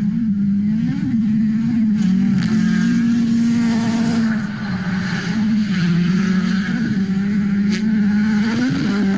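Rally car engine running at steady, high revs, its pitch holding level with small rises and dips. A sharp click sounds near the end.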